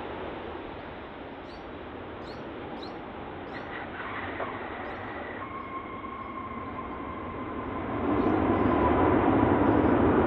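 Air India jet airliner's engines, a steady roar with a rumble and a high fan whine that comes in midway, swelling louder about eight seconds in as the aircraft nears. Faint bird chirps sound above it.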